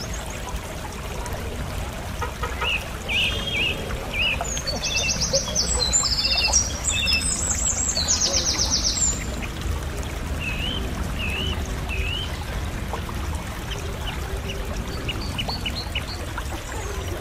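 Bird calls from an unidentified bird: short, curved whistled notes, with two fast, high rattling trills in the middle. A steady low rumble runs underneath.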